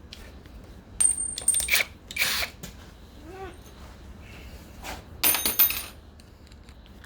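Small metal tools and parts clinking and rattling on a workbench, in two clusters of sharp clicks, the second with a bright metallic ring.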